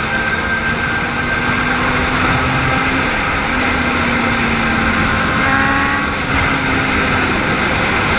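Motorcycle riding along at a steady pace, its engine running steadily under a continuous rushing road and wind noise.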